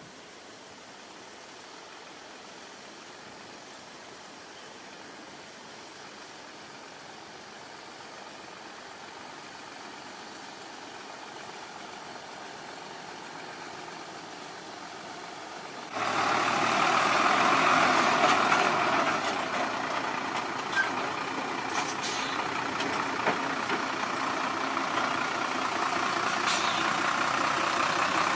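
A faint steady hiss, then about halfway through a sudden cut to loud heavy diesel earthmoving machinery running, with a few sharp knocks.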